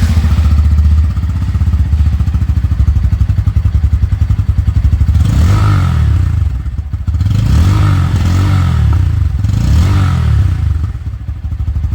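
2024 Bajaj Pulsar N160's single-cylinder engine running through its stock exhaust with a deep thump and bass, first at a steady idle, then blipped about four times in the second half.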